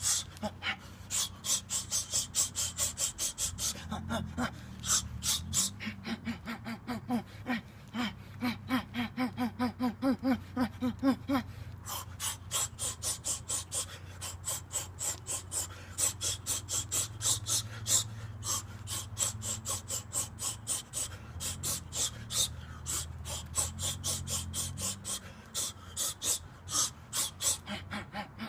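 A boxer's rapid, sharp hissing exhalations, one with each punch of a fast combination drill, several a second, over a steady low hum.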